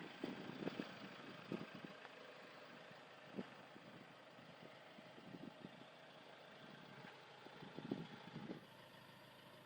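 Near silence: a faint background hum with a few soft, brief knocks scattered through it.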